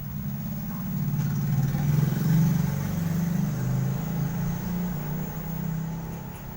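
A motor vehicle's engine going past: a low steady drone that swells to its loudest about two seconds in and then fades away.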